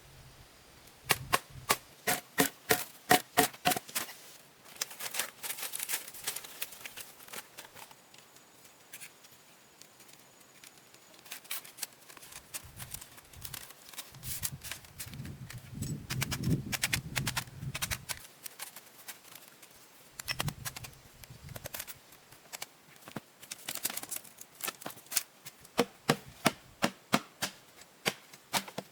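Runs of quick, sharp knocks, several strokes a second, near the start and again toward the end, with a duller, lower knocking in between.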